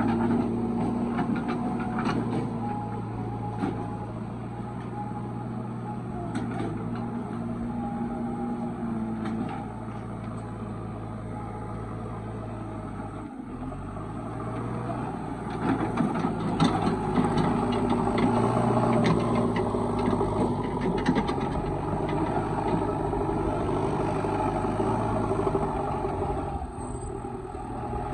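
Diesel engines of a backhoe loader and tractors running steadily, with scattered knocks and clanks. The sound breaks off sharply about 13 seconds in, then comes back and gets louder a few seconds later.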